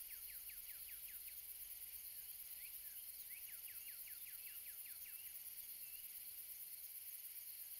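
Faint nature ambience: a bird giving runs of quick chirps that slide downward, several a second, over a soft steady hiss.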